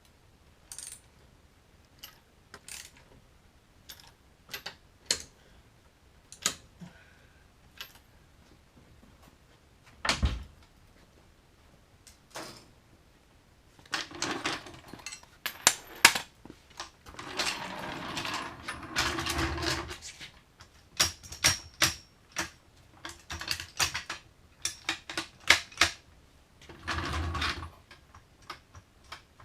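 Hand tools working on a car wheel: scattered metallic clicks and knocks, with denser clattering and scraping about halfway through and again near the end.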